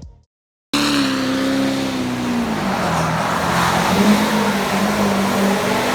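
A motor vehicle running, its pitch falling over about two seconds and then holding steady under a heavy hiss of noise; it starts abruptly about half a second in, after a moment of silence.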